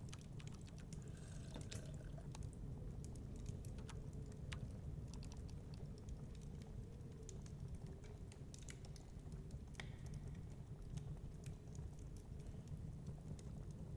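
Crackling wood fire: irregular small pops and snaps scattered over a steady low rumble.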